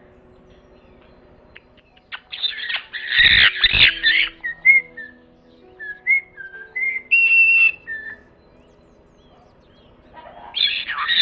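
A bird calling: a burst of harsh, screechy squawks about two seconds in, with a couple of low thumps among them. A string of short whistled notes follows, one of them held a little longer, and harsh squawks start again near the end.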